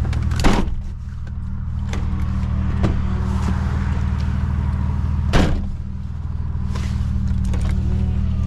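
Nissan 300ZX twin turbo's 3.0-litre V6 idling steadily, with two heavy thumps of the car door shutting, about half a second in and again about five seconds in.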